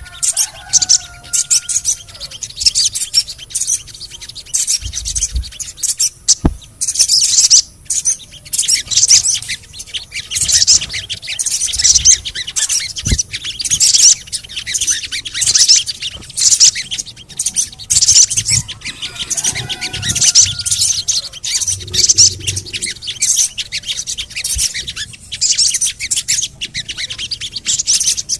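Sogon bird chattering rapidly, a dense run of quick, high-pitched notes with brief gaps, with a few fainter whistled notes sliding down now and then. This is the 'cret-cretan' lure song used to get other sogon birds to sing.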